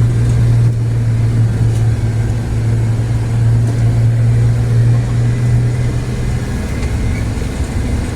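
Car driving along a road, heard from inside: a steady low engine and road drone that eases off about six and a half seconds in.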